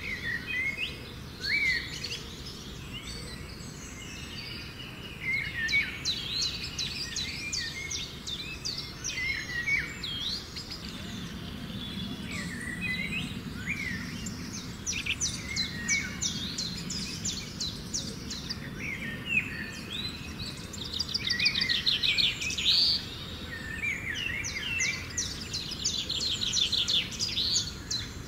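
Rainforest birds calling and singing, several at once: rapid trills and short whistled notes overlapping throughout.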